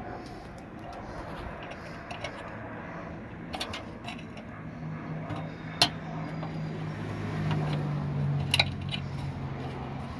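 A few sharp metallic clinks of hand tools and bolts while a fender bolt is refitted, the loudest about six seconds in. A low steady hum rises under them from about five seconds to nine.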